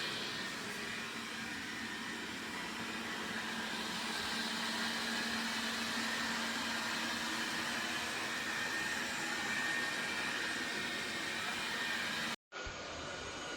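Dreame D9 Max Gen2 robot vacuum running steadily: an even suction noise with a faint high whine. It cuts out for a moment near the end, then continues sounding duller.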